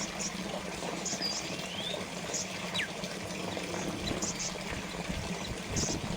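Small water fountain trickling and splashing steadily, with short high chirps and a few thin gliding whistles over the water.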